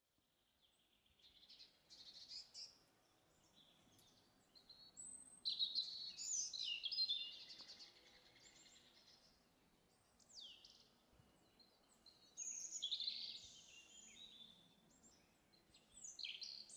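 Faint birdsong: a few separate bursts of chirps and twittering with near silence between them. The longest and loudest burst comes about six seconds in.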